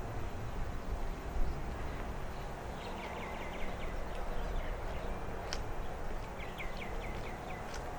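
A small bird singing two quick runs of short, downward-hooked notes, about half a dozen in each, the first about three seconds in and the second near the end, over a steady low rumble.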